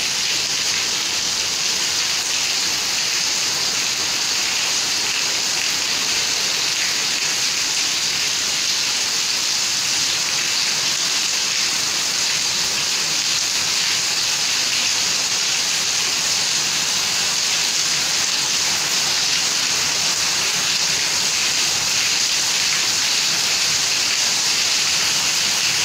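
Heavy rain pouring down steadily, a dense, even hiss that holds without letting up.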